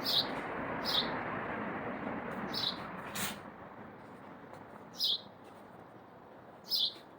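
A small songbird chirping: short, high, falling chirps repeated five times, one to two seconds apart, over a soft outdoor background hiss. A brief click sounds about three seconds in.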